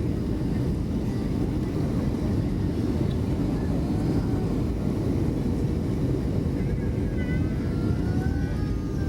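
Steady low rumble of a Boeing 757-200's engines and airflow heard inside the passenger cabin from a window seat, with a faint steady hum riding on it.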